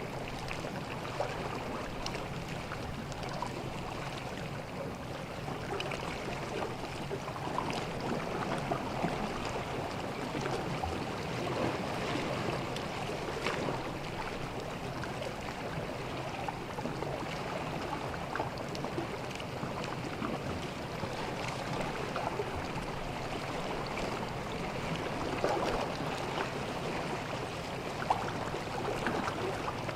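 Small sea waves lapping and washing on a beach: a steady watery rush with fine crackling and gurgling, swelling a little now and then.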